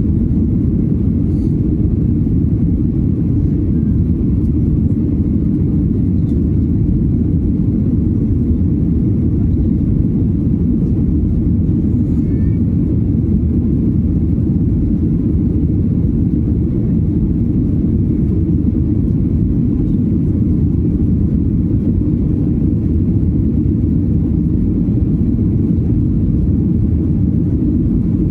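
Steady low rumble of engine and airflow noise inside the cabin of a Boeing 737-900ER jet airliner, holding an even level with no changes.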